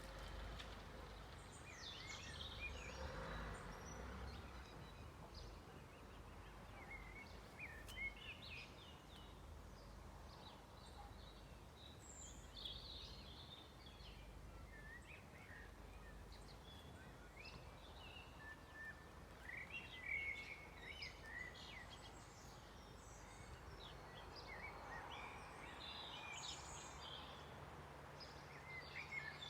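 Several songbirds singing, with short chirps and trills scattered throughout, faint over a low background rumble.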